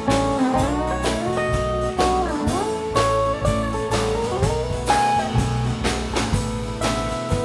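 Live band playing an instrumental break: a lead guitar solo of held and bent notes over bass and drums, with a blues feel.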